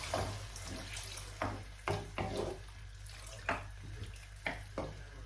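Water being poured into the pan of chicken curry, with a series of short sharp sounds scattered through the pour.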